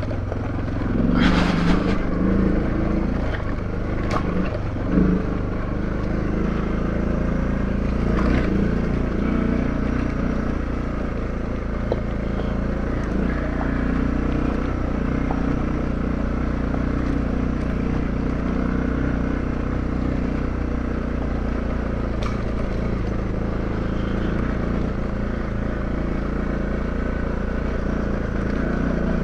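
Adventure motorcycle engine running steadily at low speed while riding a rough rocky trail, with a few sharp knocks from the bike over the rocks in the first several seconds.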